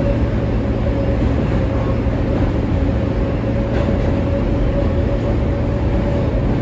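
R143 subway car heard from inside, running steadily: a loud, even low rumble with a constant whine over it.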